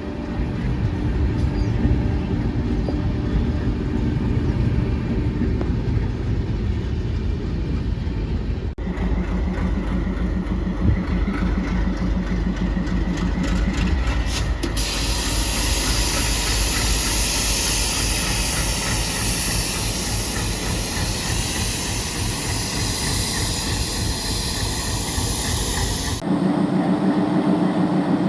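ALCO WDM-3D diesel locomotive's engine idling with a low rumble. About fifteen seconds in, a loud hiss of compressed air being released from the locomotive starts, runs for about eleven seconds and cuts off.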